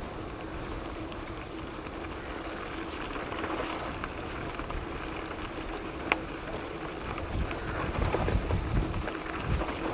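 Ride noise from a moving bicycle: wind on the microphone and tyre rumble, with a faint steady hum and a single sharp click about six seconds in. The wind gusts grow louder near the end.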